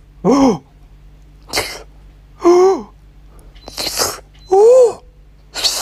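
Three short wavering vocal calls, each followed about a second later by a sharp, breathy, sneeze-like burst.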